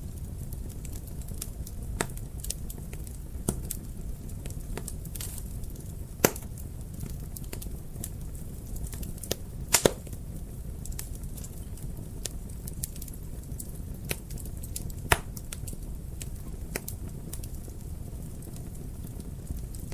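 Wood fire burning in a fireplace: a steady low rumble of flames with irregular crackles and sharp pops, the loudest pops about 6 and 10 seconds in.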